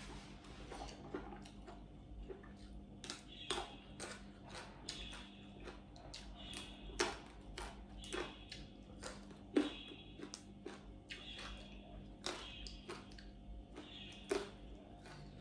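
Close-up eating sounds: chewing and lip smacks, with frequent soft clicks and brief hissing sounds, over a low steady hum.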